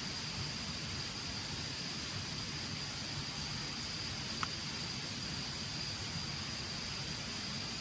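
Insects trilling steadily in one high, even tone over a constant outdoor hiss, with a single small click about four and a half seconds in.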